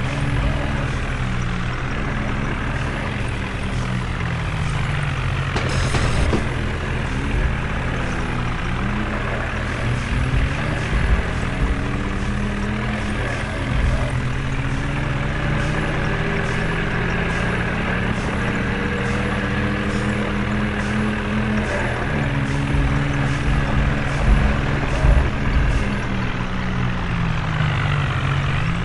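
Tractor's diesel engine running continuously, its pitch slowly rising and falling as the revs change.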